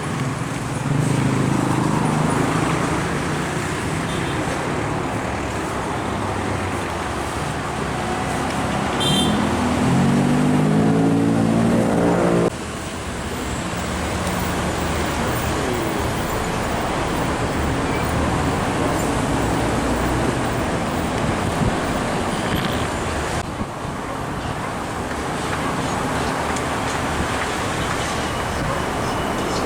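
Steady roadway traffic noise with trucks passing close by. Near the start one engine runs low and steady, and about ten seconds in a truck's engine climbs in pitch as it accelerates, then the sound cuts off suddenly; the traffic noise changes abruptly again later on.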